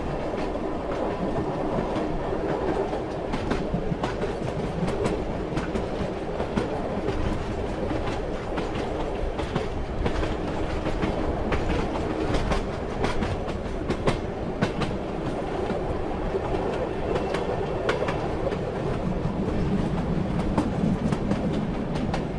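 Moving train: a steady rumble with the wheels clicking and clacking irregularly over the rail joints.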